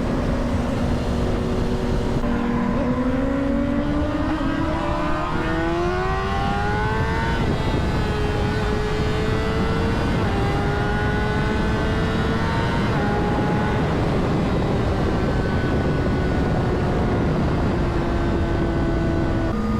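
A 2009 Honda CBR600RR's inline-four engine pulling under load with wind rushing over the helmet microphone. The engine note climbs for several seconds and drops at a gear change about seven seconds in, then holds fairly steady with smaller shifts.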